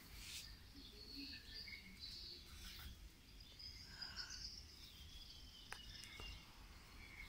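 Near silence: faint birds chirping in the distance over a low background hum, with two small clicks near the end.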